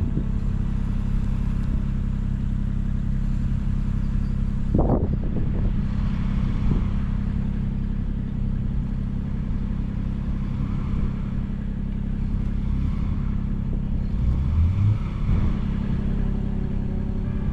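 Engine running steadily close by, with a short clatter about five seconds in and a brief rev near the end.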